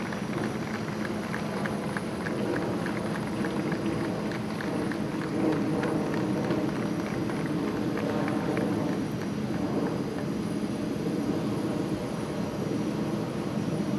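Jet airliner's engines running at idle: a steady noise with a constant low hum. Faint rapid clicks, about four a second, come in the first few seconds and again around the middle.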